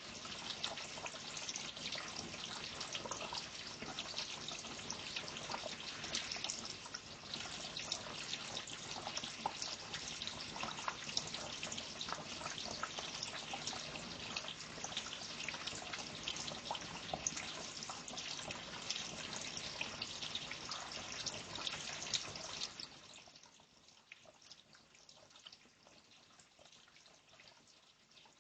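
Water trickling and dripping steadily, with many fine splashes, until it falls much quieter about 23 seconds in.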